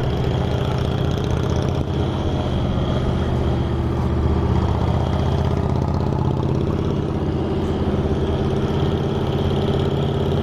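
Motorcycle engines running steadily on a group ride, a deep, even exhaust note.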